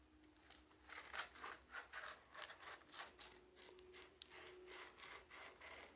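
A knife cutting and scraping through a cardboard box and its packing tape in a run of short, irregular strokes.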